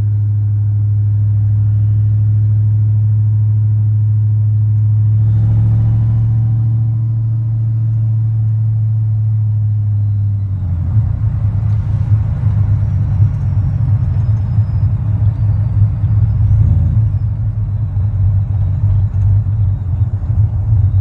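Supercharged 5.4-litre V8 of a 1999 Ford F-150 SVT Lightning running, with a steady low drone for about ten seconds. It then turns to a rougher, uneven rumble.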